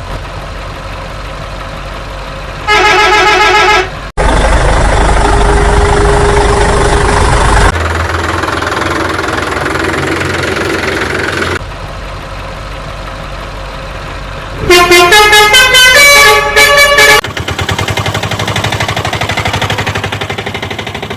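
Heavy vehicle engine sound effects running in several abruptly cut clips, with a short pulsing truck horn blast about three seconds in and a quick run of changing musical horn notes about three quarters of the way through.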